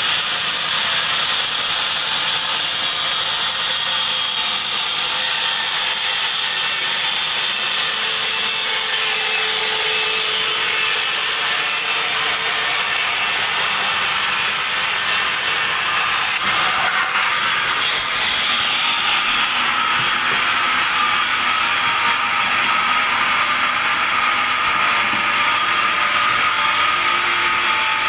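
Band sawmill blade cutting through a teak log, a steady saw noise with a brief change about two-thirds of the way through.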